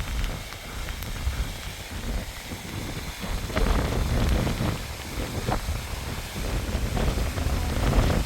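Storm wind gusting over the microphone in an uneven, rising and falling rumble, with a faint patter of rain.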